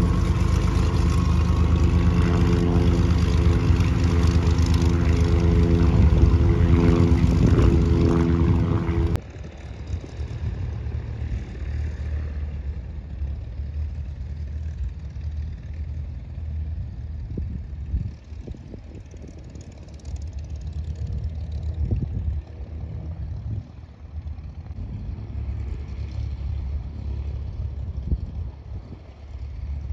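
Light propeller airplane's piston engine running close by: a steady, loud drone with a stack of even tones. About nine seconds in it cuts off abruptly, leaving a quieter low rumble.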